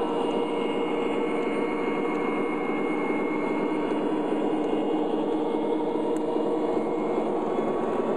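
MTH O-scale model diesel locomotives, Conrail SD40-2s and a Great Northern SD45, running on track: a steady diesel-engine drone from their onboard sound systems, mixed with the rolling of the train on the rails.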